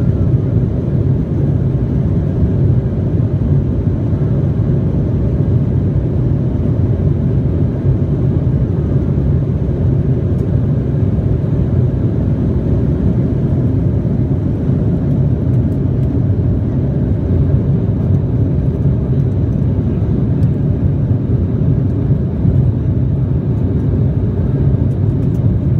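Steady cabin noise inside an Embraer E175 airliner: an even, deep rumble of its GE CF34 turbofan engines and airflow, holding level without change.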